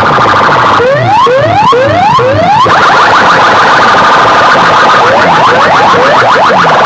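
Electronic siren-style sound effect blasted very loud through a DJ sound system: rapid rising sweeps repeating several times a second, slowing to longer rising whoops about twice a second for a couple of seconds near the start, then speeding up again.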